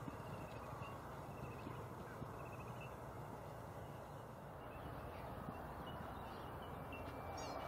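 Steady open-air background noise with faint, brief bird calls now and then, and a quick run of high chirps near the end.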